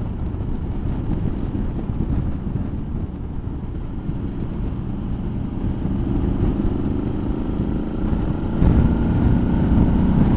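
Suzuki V-Strom motorcycle on the move, its engine running under a dense low rush of riding noise. The engine note climbs slowly, and just before the end it gets suddenly louder as the bike pulls harder.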